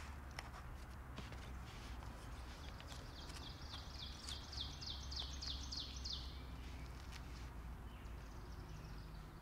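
A songbird sings a quick run of about a dozen high, down-slurred notes, about four a second, starting around three seconds in. Underneath are a faint steady low rumble and a few light clicks.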